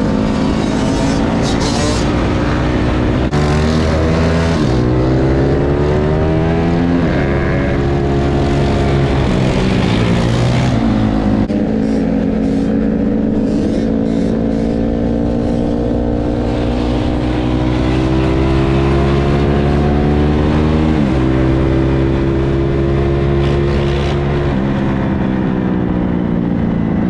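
Dirt bike engine running hard and revving up through the gears: the pitch climbs, then drops sharply at each shift, several times over.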